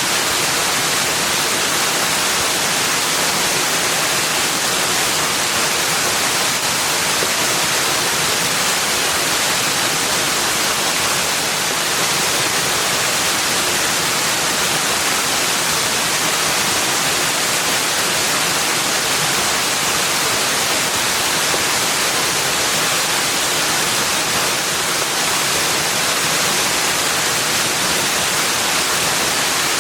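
Rushing water as a steady, even hiss, unchanging throughout, with no birdsong or other sounds over it.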